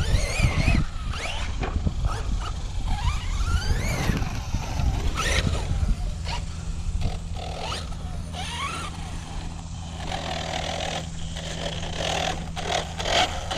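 Electric motor of a Tekno ET48.3 1/8-scale RC truggy in monster-truck form, whining up and down in pitch as the throttle is blipped, with tyres churning dirt and several sharp knocks as the truck lands and hits the ground.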